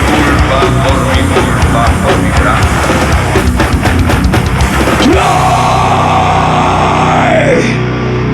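Live heavy metal band playing loud, with distorted guitars and fast drum hits. About five seconds in, the drumming stops and a held, ringing chord sustains, with one note bending up and later sliding down near the end.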